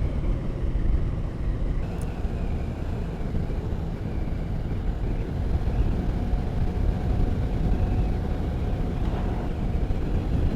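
Motorcycle riding at steady speed: wind rushing over the rider's microphone with the engine running underneath.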